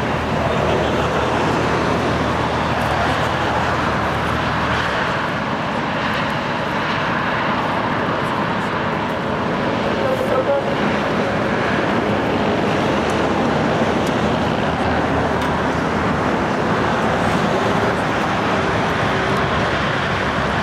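Steady rumble of vehicle engines and road noise, with voices mixed in.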